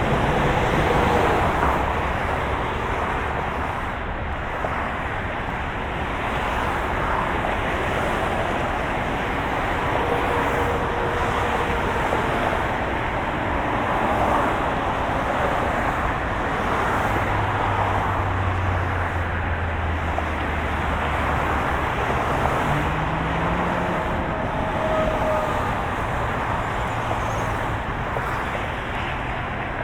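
Moving car: a steady, even rush of road noise with a faint engine hum. Past the middle a low hum grows stronger for a few seconds and then rises in pitch.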